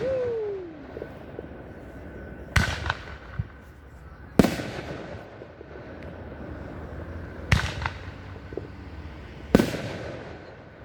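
Fireworks bursting overhead: four loud bangs a few seconds apart, each trailing off in a rumbling echo, with a short falling tone just after the start.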